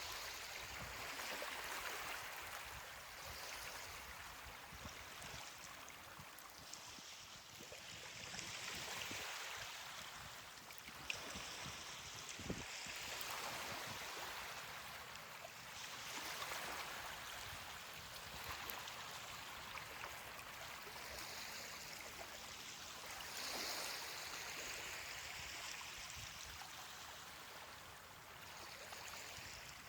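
Ocean waves washing onto a beach, the surf swelling and falling back every few seconds, with two brief ticks near the middle.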